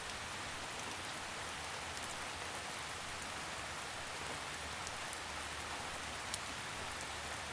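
Steady rain falling on leaves, an even hiss with a few scattered drips.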